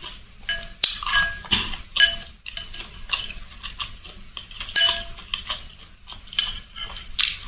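Eating utensils clinking and scraping against a bowl of noodle soup in many short, irregular clicks, a few with a brief ring, with eating noises in between.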